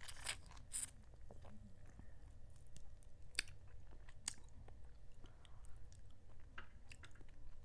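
A person chewing food close to the microphone, with wet mouth smacks and small clicks scattered throughout.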